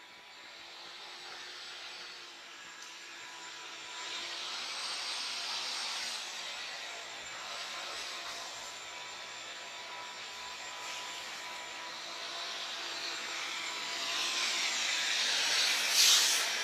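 A vacuum motor runs steadily with a thin high whine while the car is being cleaned. The level and hiss rise and fall as the work goes on, with a brief louder burst near the end.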